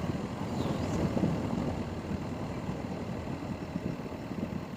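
A motor vehicle's engine running steadily, heard as a low, even rumble.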